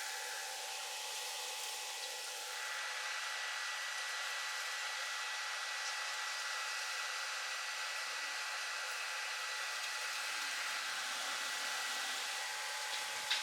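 Stick welding arc running steadily, a continuous hiss that shifts slightly a couple of seconds in.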